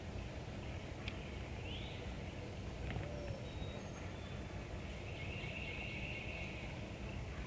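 Outdoor woodland ambience: small birds calling and singing faintly, with a high trill held for about a second and a half near the end, over a steady low rumble.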